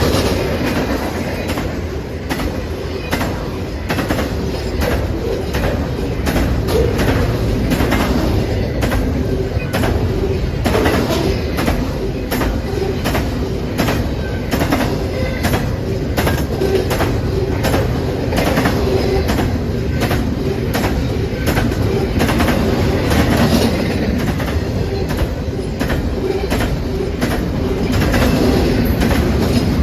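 Freight train passing close by, its wheels clacking over rail joints in a steady series of clicks over a continuous rolling rumble.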